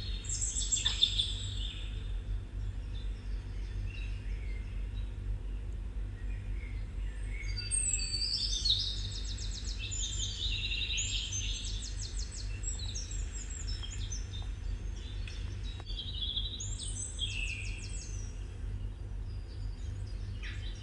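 Small birds chirping, with quick repeated trills, over a steady low hum.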